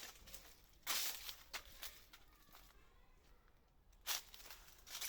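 Brief dry rustling and crunching noises, with two louder ones about a second in and about four seconds in and a few light ticks between.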